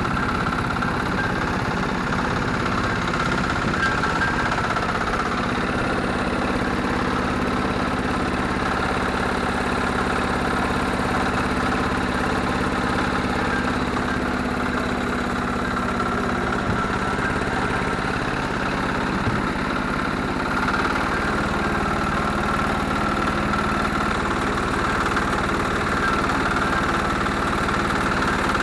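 Garden tractor engine idling steadily, its pitch shifting slightly a couple of times.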